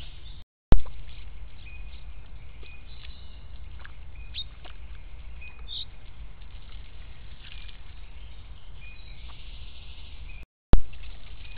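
Small woodland birds chirping and calling, heard through a trail camera's microphone over a steady low rumble. Twice the sound drops out for a moment and returns with a sharp click as a new camera clip begins.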